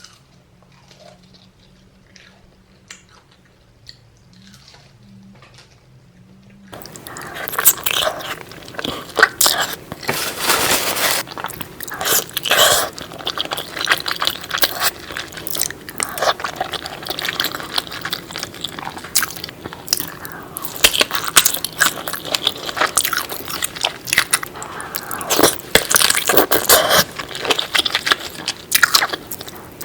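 Close-miked eating sounds: biting and chewing with crunching and wet crackles, starting abruptly about seven seconds in after a quiet stretch of faint mouth clicks.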